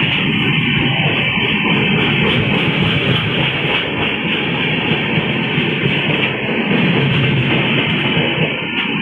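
Express train hauled by an electric locomotive running through a station at speed without stopping: a loud, continuous roar of wheels on rail.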